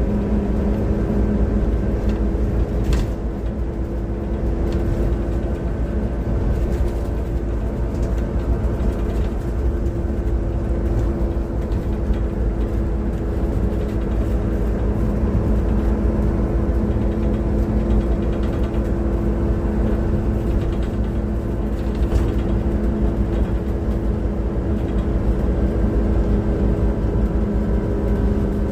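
Transperth bus TP1422's engine running: a deep, steady rumble with several steady whining tones over it and an occasional faint rattle. The uploader calls it a bad engine sound.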